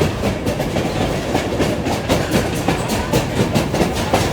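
Passenger railroad car rolling along the track, heard from aboard: a steady rumble with a quick, uneven run of clicks and knocks from the wheels on the rails.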